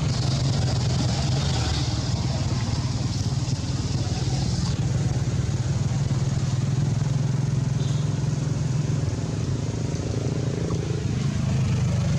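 A motor running steadily with a low, even drone, with a high hiss over it that stops about five seconds in.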